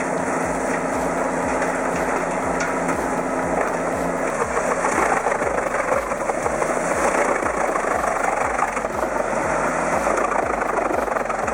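Large truck-mounted wood chipper running hard on its engine, chewing wood into chips in a dense, steady grinding roar with a low rhythmic pulse.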